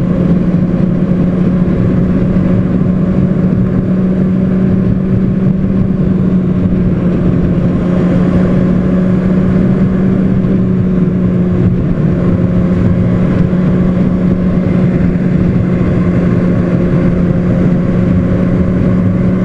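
Motorcycle engine running at a steady highway cruise, one constant engine tone over wind noise.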